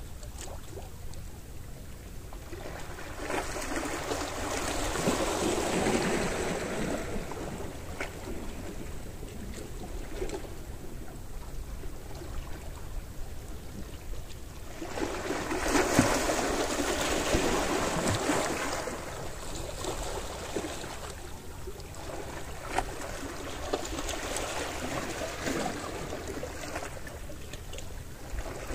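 Small sea waves washing up on the shore: three surges roughly ten seconds apart, each swelling and then fading back, over a steady wash of water.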